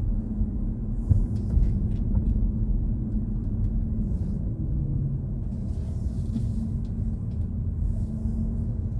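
Steady low road and tyre rumble inside the cabin of a BMW i4 M50, an electric car, driving along a street, with a couple of light knocks between one and two seconds in.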